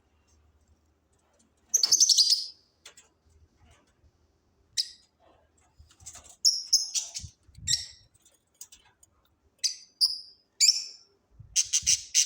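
Small parrots calling in short, sharp, high-pitched chirps and squawks, in separate bursts with gaps between; the loudest bursts come about two seconds in and in a quick run near the end. A few faint low thumps sit under the calls.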